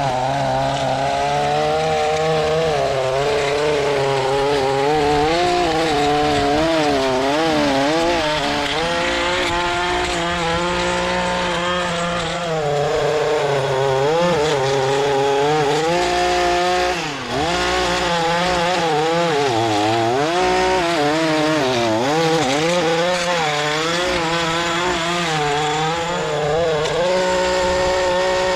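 A small gas engine of lawn equipment runs continuously under changing load. Its pitch rises and falls every second or two, with a brief drop about 17 seconds in.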